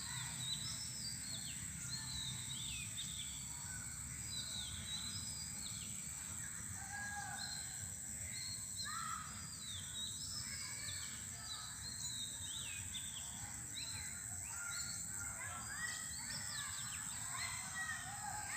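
Many birds chirping and calling in a busy run of short, quick notes, over a faint steady low background hum.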